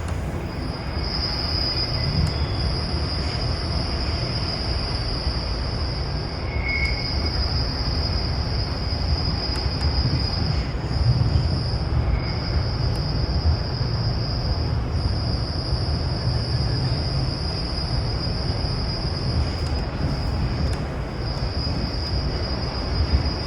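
MARTA rapid-transit train heard from inside the railcar while running: a steady low rumble with a high-pitched whine that breaks off briefly a few times.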